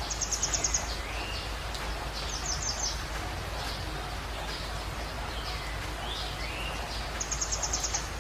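Birds chirping: three quick runs of high, rapid chirps, near the start, in the middle and near the end, with softer rising and falling whistled notes between them, over a steady low hum.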